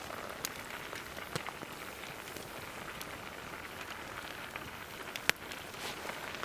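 Steady sizzling hiss of paella cooking in a cast iron pan over a wood campfire, with a few sharp pops from the burning wood, the loudest about five seconds in.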